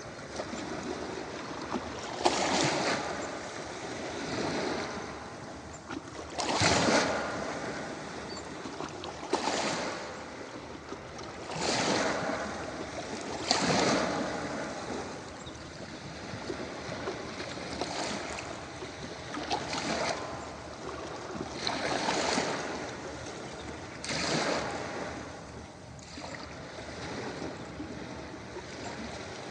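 Ocean waves breaking on a beach, a surge of surf every few seconds over a steady rush of water.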